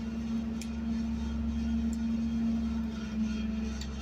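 Garbage truck engine running steadily with a constant low hum, with a few faint ticks.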